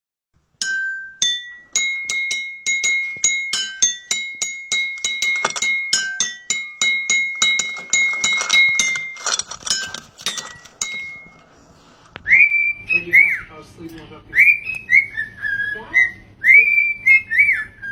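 Rapid clicking with short, ringing high notes at a few different pitches for about ten seconds. After a short lull comes a run of short whistled notes, each rising and then falling, like a parrot whistling.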